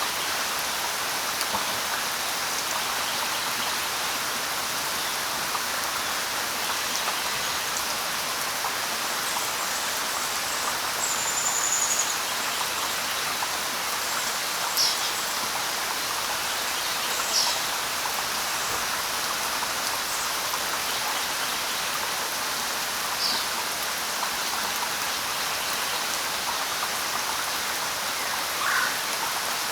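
Steady light rain falling in an even hiss, with a few brief, high bird calls spread across it, including short falling chirps.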